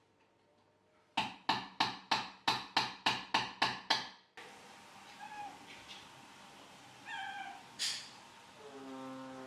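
A quick run of about ten sharp taps or knocks, roughly three a second, followed by a domestic cat's short meows.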